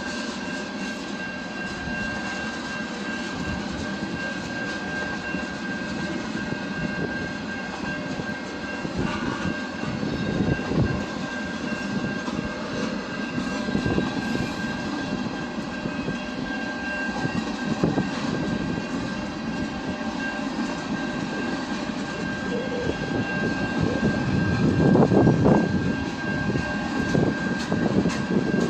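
A train running past on the rail line: a steady rumble of wheels on track with a thin high whine held throughout, irregular knocks, and the loudest stretch near the end.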